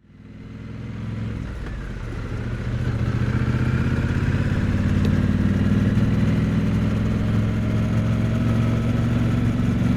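Triumph Bonneville T100's parallel-twin engine running steadily, picked up close to the exhaust. It fades in over the first two or three seconds, then holds an even note.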